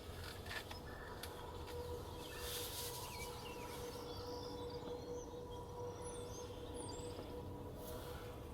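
Quiet outdoor ambience with a few brief high bird chirps about two thirds of the way through, over a faint steady hum.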